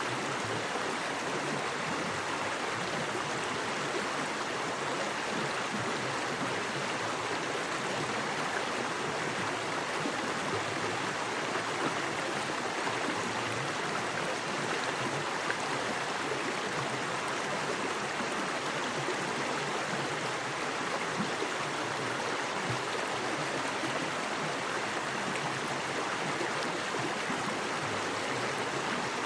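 Small woodland creek with fast water flowing over rocks: a steady, even rushing with no pauses or changes.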